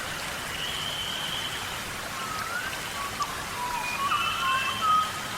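Several wild birds singing together: overlapping clear whistled notes and short rising and falling whistles, over a steady hiss.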